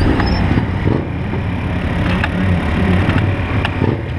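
BMW S1000RR's inline-four engine idling at low revs, with a few light clicks.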